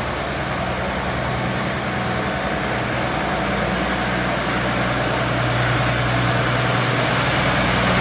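A motor vehicle's engine running steadily under a broad rushing noise, slowly growing louder.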